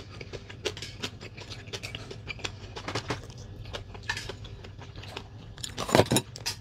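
Close-miked chewing of a mouthful of food: a quick string of small wet mouth clicks, with a louder burst about six seconds in, over a faint steady low hum.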